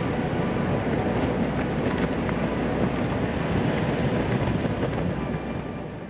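Erupting volcano: a steady, dense rushing noise with faint music beneath it, fading out at the very end.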